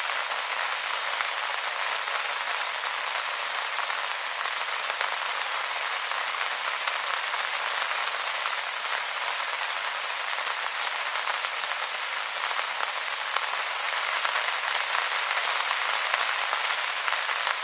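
Steady rain falling on wet leaves: a dense, even patter of raindrops.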